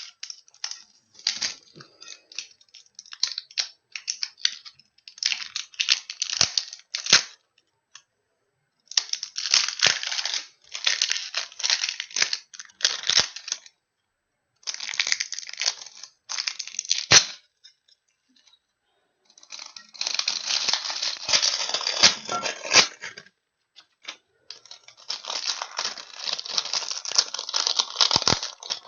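Packaging wrap being torn and crinkled off a new aluminium baseball bat, in irregular bursts of rustling with short pauses. There is a sharp click or knock about two thirds of the way through.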